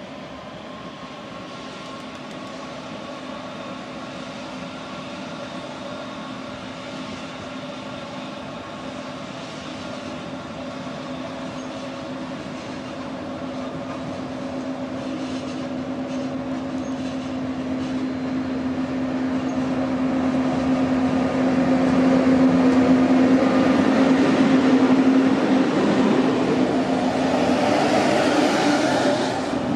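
A train approaching, its steady humming tone growing louder over about twenty seconds and loudest in the last several seconds.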